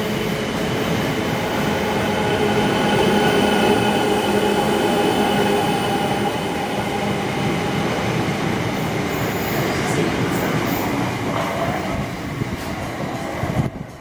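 Electric multiple-unit passenger train running past close alongside a station platform: a loud, continuous rush of wheels on rail with a steady whine that fades about halfway through. The sound drops away sharply just before the end as the last carriage clears.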